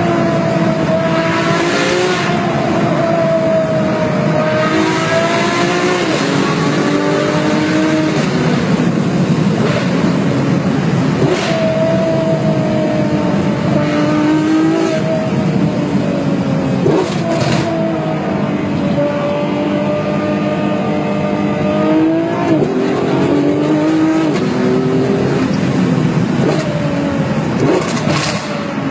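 Sports car engine accelerating hard in low gears, its pitch repeatedly climbing and dropping back at each gear change, with a few sharp cracks along the way.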